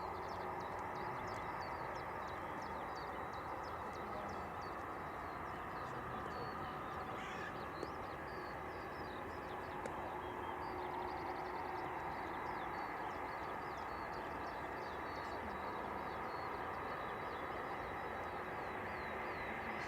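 Small birds chirping and twittering in quick short notes, over a steady background hum.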